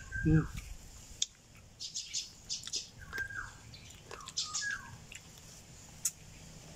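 Birds calling: several short whistles that drop in pitch, with sharp high chirps between them. A brief low voice-like hum just after the start is the loudest sound.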